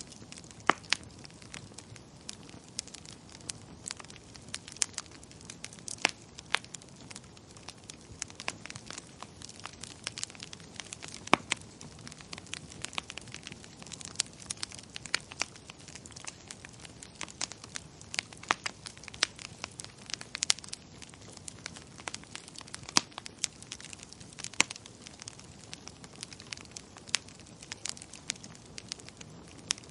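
Wood fire crackling in a fireplace: a steady low hiss with frequent irregular sharp pops and snaps, a few louder ones now and then.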